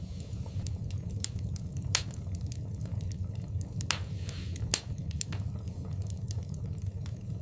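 Wood fire burning in a fireplace: irregular crackles and pops over a steady low rumble, with two loud pops, about two seconds in and just before five seconds, and a short hiss just before the second pop.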